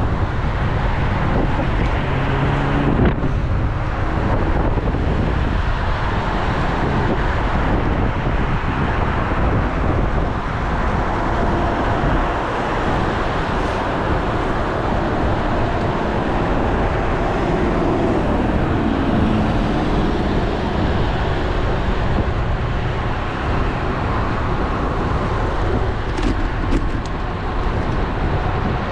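Road traffic with cars passing, heard through steady wind noise on an action camera's microphone while riding a road bike.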